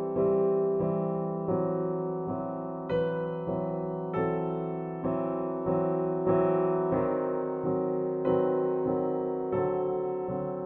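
Soft background music on a piano-type keyboard: a slow, even run of chords, each struck and left to fade, a little over once a second.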